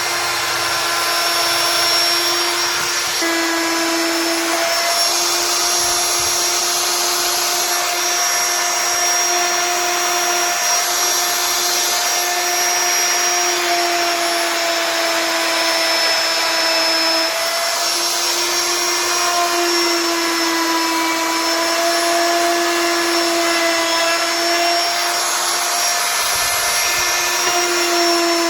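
CNC router spindle cutting wood, running with a steady high whine over a hiss; the pitch sags and recovers slightly a few times as the cutting load changes.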